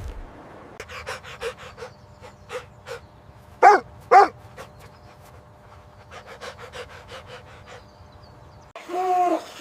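A dog panting in quick short breaths, with two loud barks about half a second apart in the middle.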